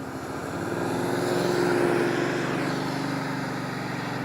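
Motorcycle engine accelerating, getting louder until about two seconds in and then easing off, over a steady rush of wind and road noise.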